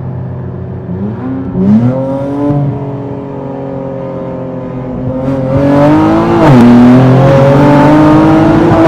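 Infiniti Q60's tuned twin-turbo V6 under hard acceleration in a roll race, with the engine note rising. It starts with a short rise in revs that then holds, goes to full throttle and gets much louder about two-thirds of the way through, dips sharply at an upshift, then climbs again.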